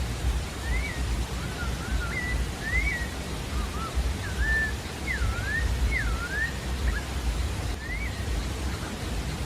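Pale-breasted thrush (sabiá-da-várzea) singing: a run of short whistled phrases that rise and fall, with brief gaps between them, over a steady low rumbling noise.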